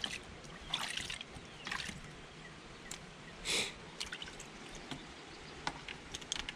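Gasoline sloshing and dripping in a bucket as a fuel sending unit with cork floats is swished around in it, with irregular small splashes and one louder slosh about three and a half seconds in.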